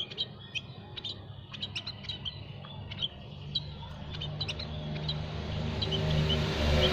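Small songbirds chirping with many short, high calls in quick succession. Over the second half a low rumbling noise builds up and grows louder.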